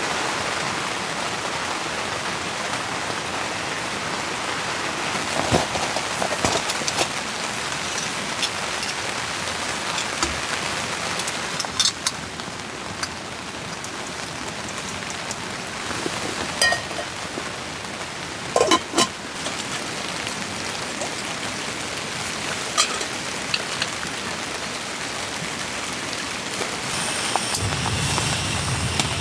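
Heavy rain pattering steadily on tent fabric, heard from inside the tent, with scattered sharper drop taps. Near the end a low hum with a few faint high tones joins in.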